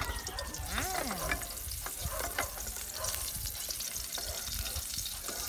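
Chopped chilies sizzling in hot oil in a wok, stirred with a wooden spatula, with a steady crackling hiss and scattered small ticks.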